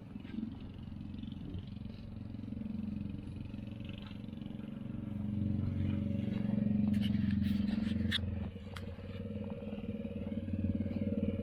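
Kids' car's 110cc engine running, getting louder over the middle of the stretch, easing off briefly near the end and then picking up again. A few sharp clicks or knocks sound around the loudest part.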